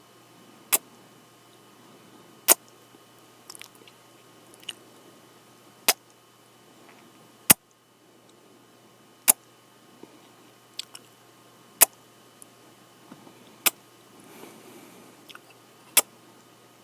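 Close-up kissing sounds made into the microphone: sharp lip smacks every second or two, about eight loud ones, with softer mouth clicks between.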